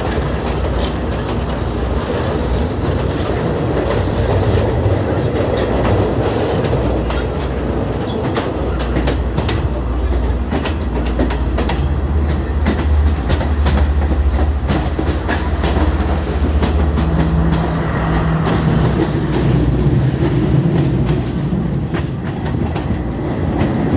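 Passenger train running along the track, with a steady low rumble and the repeated clatter of wheels over the rails.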